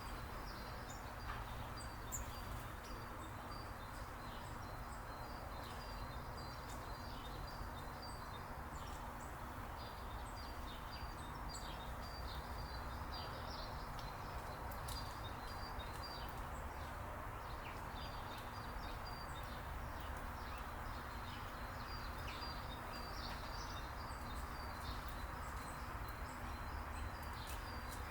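Small birds chirping: many short, high calls repeated throughout, over a steady low background noise.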